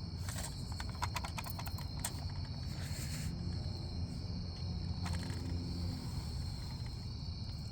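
Crickets chirping steadily over a low, even rumble, with a run of light clicks in the first two seconds and one more click about five seconds in.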